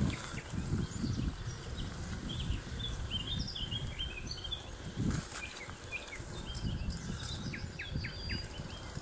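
Several birds singing, many short chirps and quick whistled notes, over a louder uneven low rumble.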